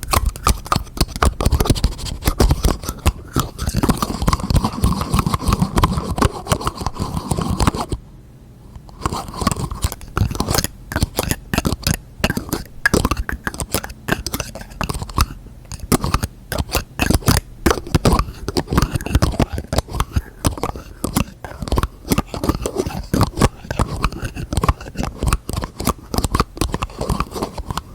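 Fast tapping and scratching by hand on containers and their lids: a dense run of sharp clicks and scraping strokes, with a pause about eight seconds in.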